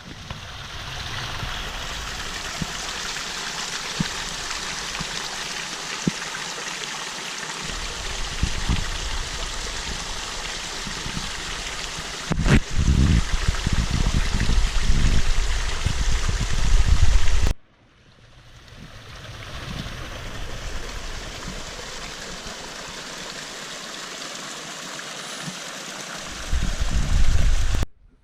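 A stream flowing with a steady rush of water, broken twice by deep rumbles, and cut off abruptly about two-thirds of the way through before it resumes.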